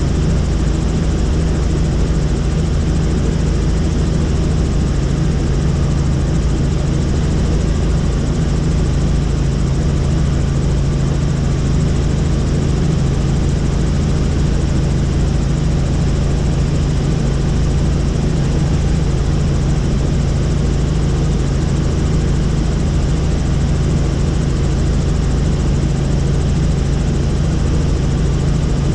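Helicopter engine and rotors running at a steady pitch: an unbroken low drone with a constant hum and a hiss of rushing air over it.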